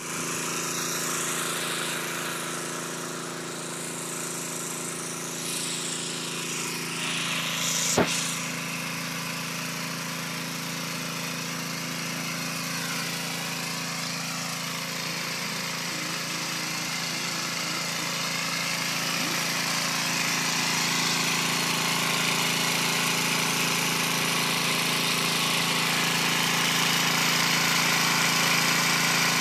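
Small 5 hp Honda petrol engine running steadily, with a single sharp click about eight seconds in and the sound growing a little louder toward the end.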